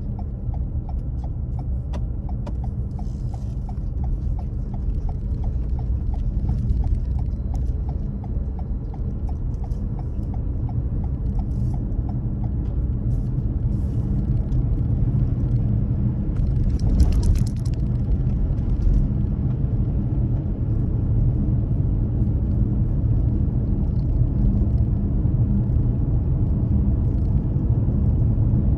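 Car driving along a road, its steady low road and engine rumble heard from inside. A regular light ticking runs for the first dozen seconds, and a short rushing hiss comes about two-thirds of the way through.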